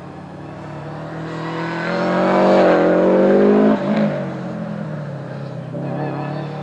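Race car engine at full throttle approaching and passing, loudest from about two to three and a half seconds in, then dropping off sharply as it goes by and fading up the road.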